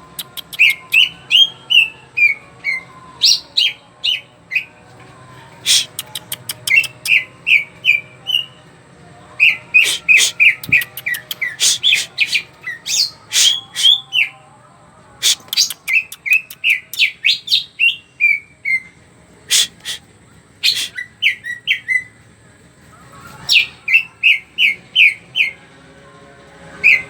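Green leafbird (cucak ijo) singing in full, lively 'gacor' song. It gives repeated phrases of quick, sharp whistled notes, broken up by single sharp high chips, with short pauses between the phrases.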